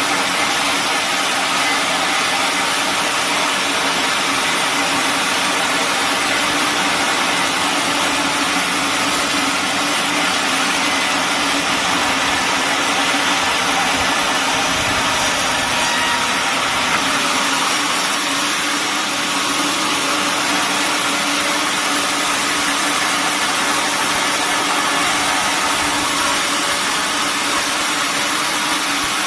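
Sawmill machinery running steadily: a loud, even machine noise with a constant hum and no pauses.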